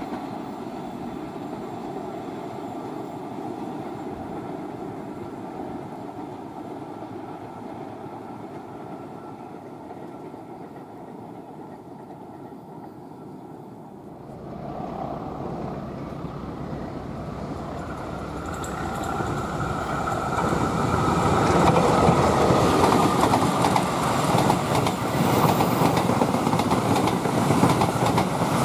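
Train passing on the line: a steady rumble slowly fades, then about halfway through a train draws near and grows loud, passing close with the clatter of its wheels over the rail joints.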